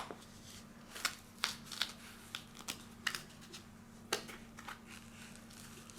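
Irregular short clicks and rustles of straps and fabric being handled as a posture corrector is fitted and fastened over a hoodie.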